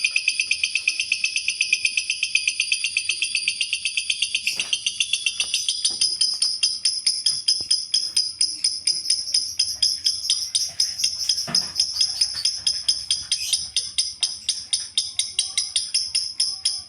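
Lovebird chattering in a long, unbroken trill: a rapid, even series of shrill chirps, about six a second, that shifts higher about four seconds in.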